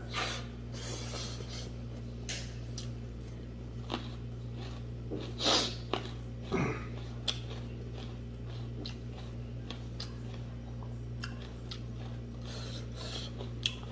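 A person chewing and eating food close to the microphone, with scattered small wet clicks and smacks and a few louder mouthfuls, over a steady low hum.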